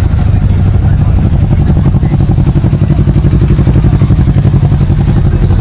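Motorcycle engines running: a loud low rumble with a fast, even beat that stands out from about two seconds in.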